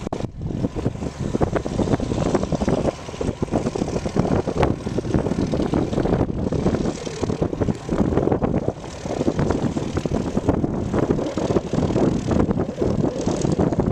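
Light propeller airplane's engine running, a rough, uneven noise whose level keeps rising and falling.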